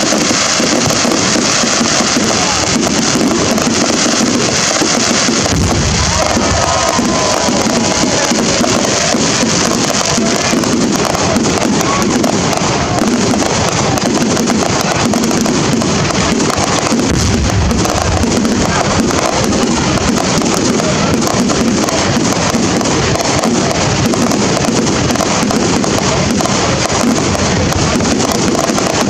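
Fireworks display going off in a dense, continuous barrage of bangs and crackling, with music alongside.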